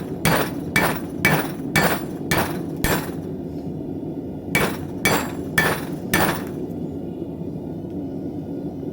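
Hand hammer forging a steel knife blank on an anvil: a run of blows about two a second, a break of about a second and a half, then four more blows. After the blows there is only a steady low background noise.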